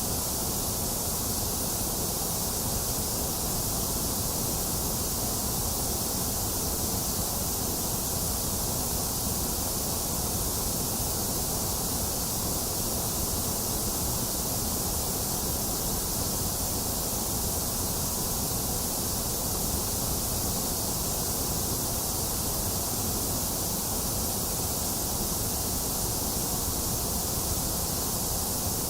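Steady white noise: an even, unchanging hiss that is brightest in the highs, with no breaks or variation.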